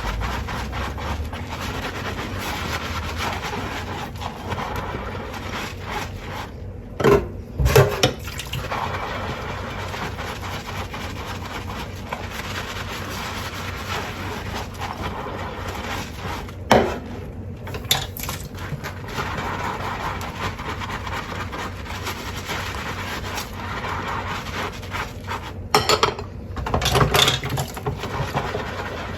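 Tap water running steadily over dishes as they are hand-washed in a sink, with scrubbing and rubbing. Dishes clatter against each other a few times, about seven seconds in, at about seventeen seconds, and twice near the end.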